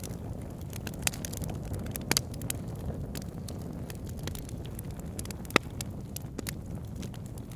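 Wood fire burning in a fireplace: a steady low rumble of flames with scattered crackles and snaps, the sharpest pop about five and a half seconds in.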